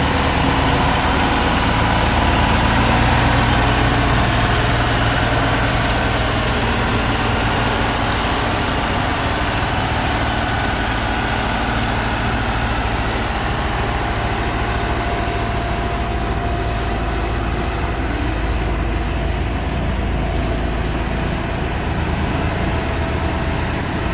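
Heavy diesel engine of a motor grader running steadily under work, easing slightly in loudness over the stretch.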